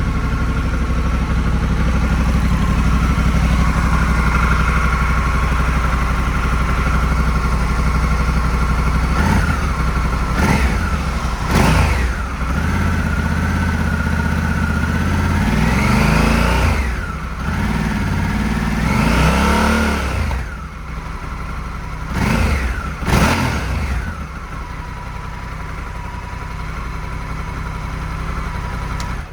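Honda CRF1100L Africa Twin's 1084 cc parallel-twin engine idling through its stock exhaust, then blipped about seven times from about nine seconds in, some quick stabs and some held revs that rise and fall over a second or two, each time dropping back to idle. The engine stops at the very end.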